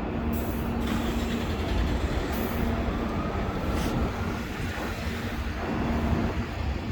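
City street traffic: a steady low engine rumble with a held hum, broken by a few short hisses and a faint rising whine in the middle.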